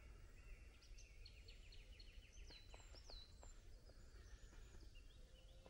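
Faint birdsong: a songbird's quick runs of high notes and short downward-sliding whistles.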